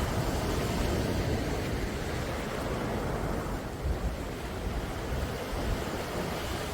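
Sea waves washing onto the shore in a steady wash of surf, with low wind rumble on the microphone.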